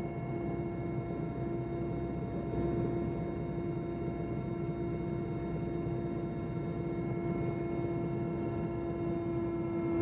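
Helicopter in flight, a steady drone with a constant humming tone and a noisy rush beneath it.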